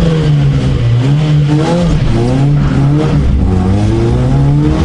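Vauxhall Astra GSi rally car's engine, heard from inside the cabin, revving hard as the car launches from the stage start. Its pitch climbs and drops back several times as it shifts up through the gears.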